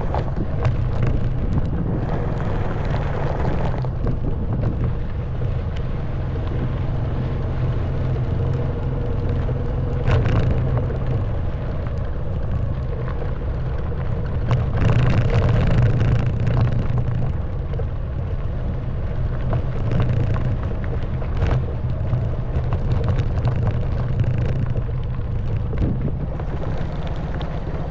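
Honda Wave 110cc single-cylinder motorbike engine running steadily while riding over a stony gravel track, with tyre crunch and occasional jolts, and a few short louder rough spells.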